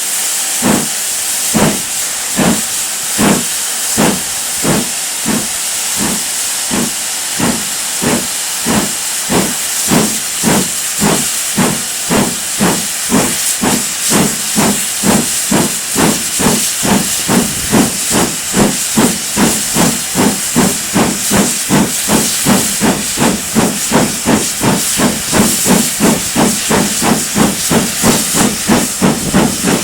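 Great Western Manor-class steam locomotive working hard: sharp exhaust beats over a steady hiss of steam. The beats quicken steadily, from roughly one a second to about three a second by the end, as the engine gathers speed.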